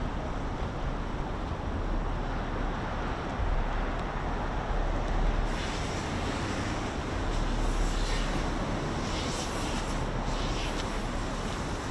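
Steady low rumble of city traffic, with gusts of rustling hiss coming and going from about halfway in.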